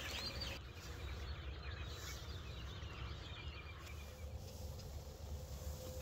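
Faint, scattered bird calls over a steady low rumble of outdoor ambience.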